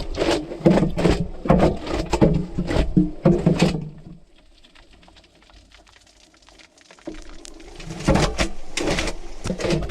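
Washing machine drum churning, heard from inside the drum: water sloshing and laundry thudding in irregular bursts. The churning dies away about four seconds in and starts again about three seconds later.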